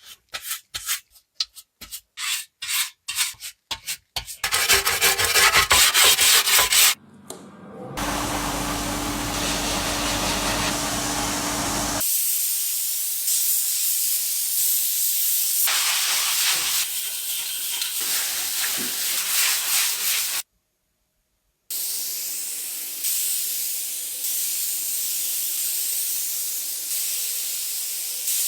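Car bodywork sounds in quick cuts: short rubbing strokes of sanding, a rougher stretch, and a motor running for a few seconds. After that comes a long steady hiss of spraying, broken once by a brief silence.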